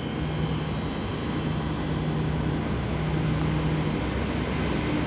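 Six-car Transperth electric suburban train pulling out of the platform: a steady motor hum with rolling rumble, slowly growing louder, and a high hiss coming in near the end.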